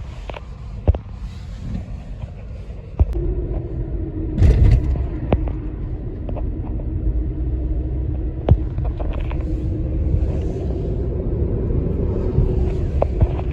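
Road traffic rumble from a motor vehicle, with a steady engine hum that comes in about three seconds in, a louder surge about a second later, and scattered sharp clicks.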